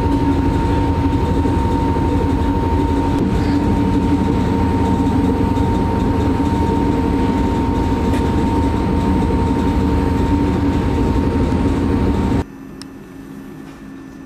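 Interior of a Newag Impuls electric multiple unit heard from the passenger saloon: a loud, steady running rumble with a steady whine on top. About twelve seconds in it stops abruptly, leaving a much fainter steady hum.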